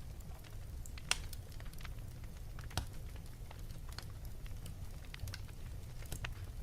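Fireplace fire crackling: irregular sharp pops and snaps over a steady low rumble, with the strongest pops about a second in and near the three-second mark.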